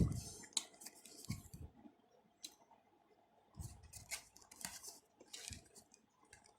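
Headphone retail packaging being handled: a run of short crackles, clicks and soft knocks in two spells, with a quiet pause between them.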